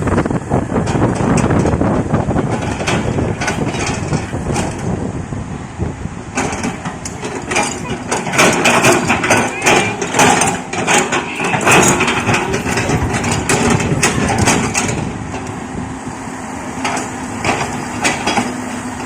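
Excavator engine running under work, with a run of sharp knocks through the middle.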